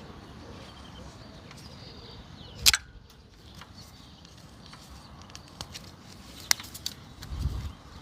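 A few sharp clicks and knocks over a faint background hiss, the loudest a single sharp knock about two and a half seconds in, with a low thump near the end.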